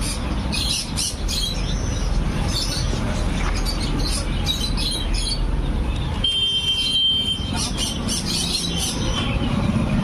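Sulphur-crested cockatoo giving short, high chirping calls over and over, over a steady low rumble. A brief held whistle-like tone comes in about six seconds in.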